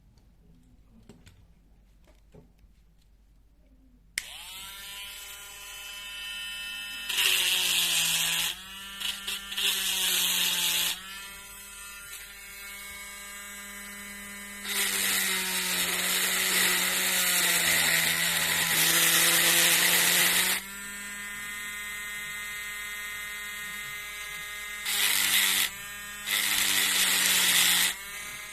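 A small handheld rotary power tool starts about four seconds in and runs steadily with a high whine. Several times it grinds or drills into metal in loud, hissy spells lasting one to six seconds, its pitch dropping slightly under the load.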